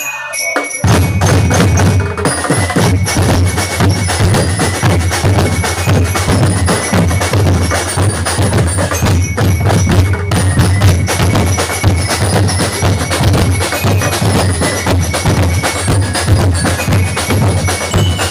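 Instrumental band music with busy drums and a heavy bass, with no singing; the full band comes in loud about a second in.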